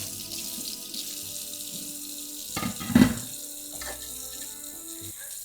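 Steady rushing noise like running water under held music notes, with a loud thump about three seconds in.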